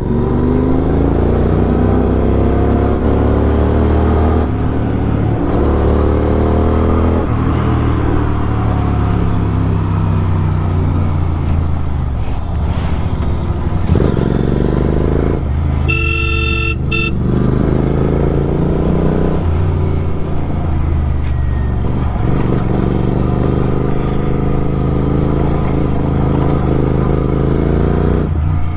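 Kawasaki Z900's inline-four engine with an SC Project aftermarket exhaust running on the road, its pitch climbing and dropping again and again as it pulls through the revs. A vehicle horn sounds for about a second around the middle.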